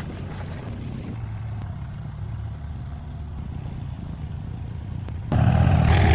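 Engine running steadily with a low hum, then suddenly much louder near the end.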